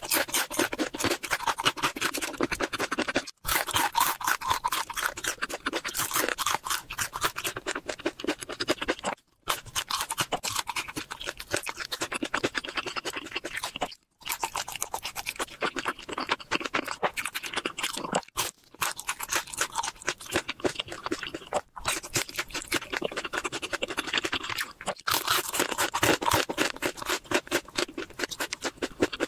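Close-miked crunching and chewing of crispy fried chicken: a dense, loud crackle of bites, broken by several abrupt, brief silences.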